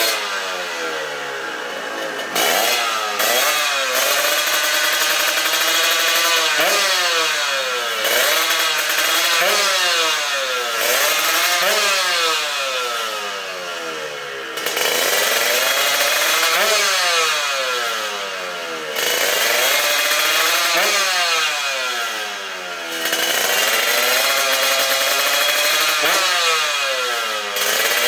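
Tuned two-stroke Kawasaki KR motorcycle engine with a 59 mm open-bore build, revved hard again and again. Its pitch climbs and drops back every second or two in a sharp, buzzing wail.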